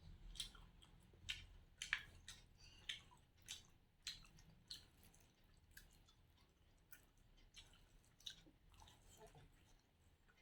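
Close-up wet chewing and lip smacks of a mouthful of rice and curry: a string of short, sharp smacks, thicker in the first half and thinning out later.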